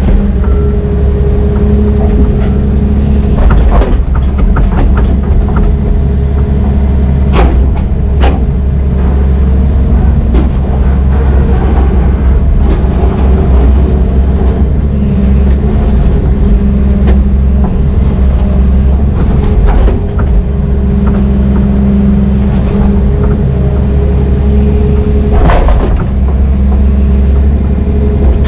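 Heavy diesel engine running steadily under load, with a few sharp metal clanks over it.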